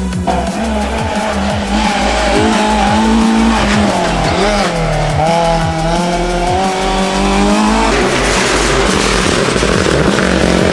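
Rally car engine held at high revs, its pitch wavering, dipping and recovering as the car is driven hard. About eight seconds in the steady note gives way to a rougher, noisier sound.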